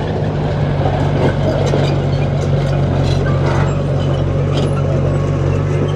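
Diesel engine of a heavy earthmoving machine running steadily, with scattered short metallic clanks and rattles over the engine sound.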